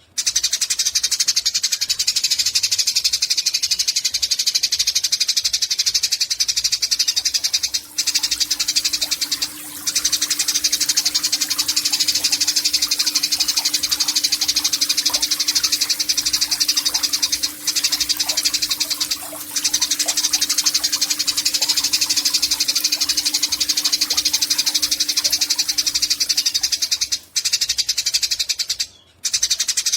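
Eurasian tree sparrow giving a long, very rapid chattering trill that runs on with only a few brief breaks. A faint low steady hum sits under it from about 8 seconds in until near the end.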